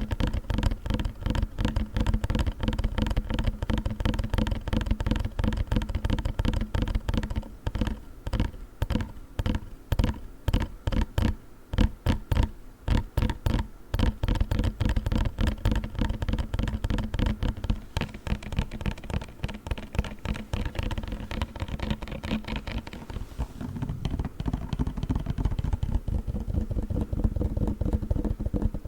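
Gel cold pack handled fast and close to the microphone: a rapid run of short crinkly, squishy strokes, several a second. The strokes come more spaced out with brief gaps partway through.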